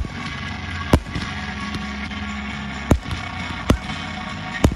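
Aerial fireworks bursting: about five sharp, irregularly spaced bangs, over a steady bed of pyromusical soundtrack music.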